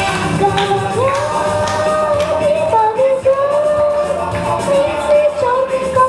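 A song: a solo voice singing a melody of long held notes over instrumental accompaniment.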